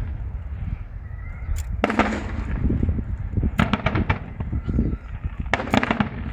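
Aerial fireworks bursting: sharp bangs, one at about two seconds, a quick cluster of several reports around three and a half seconds, and another near the end, over a steady low rumble.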